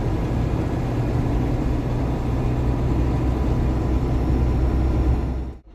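Inside the cab of a GAZon Next truck under way: steady low diesel engine drone and road rumble. It cuts off abruptly near the end.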